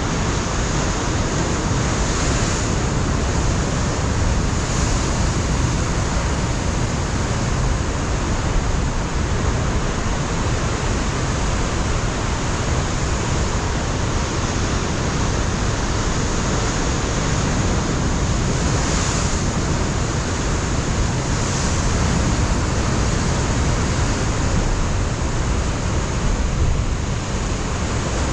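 Ocean surf breaking against a rocky shore, a steady loud wash of water with gusting wind on the microphone.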